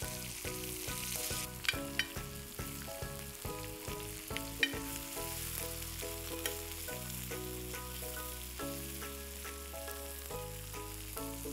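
Seer fish slices and masala sizzling in oil on a dosa tawa, the fish nearly done. A steel spatula stirs and scrapes, with a few sharp taps on the pan in the first five seconds. Soft background music with held notes plays beneath.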